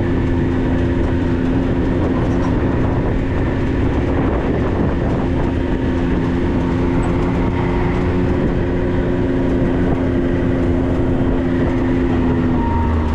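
Steady engine and road noise of a 4x4 rig driving: a level drone over a low rumble, dipping slightly near the end.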